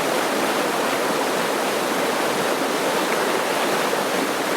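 Steady rushing of running water, like a stream or small waterfall, unchanging throughout.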